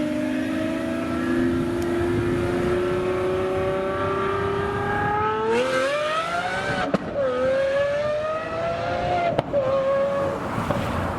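Supercar engine accelerating hard through the gears. The pitch rises slowly, then climbs quickly. There is a sharp crack and a drop in pitch at an upshift about seven seconds in, then a second climb that ends in another crack and shift about two and a half seconds later.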